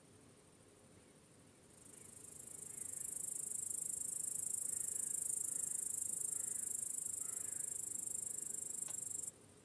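Crickets trilling in a steady high-pitched chorus that swells in about two seconds in and cuts off abruptly near the end, leaving only a faint hiss.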